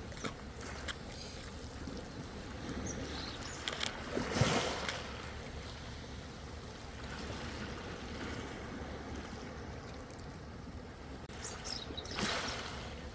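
Ocean waves washing in over a steady low rumble, with two louder surges, one about four seconds in and one near the end, and small splashes in between.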